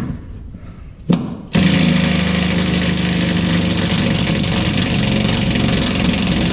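A small impact wrench starts abruptly after a click and runs steadily on a transmission mount bolt. The bolt does not break loose.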